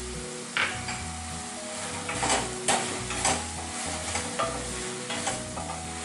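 Tomatoes and onions sizzling in a kadhai on a gas flame while a spatula stirs and scrapes them against the pan in a handful of sharp strokes, with faint background music under it.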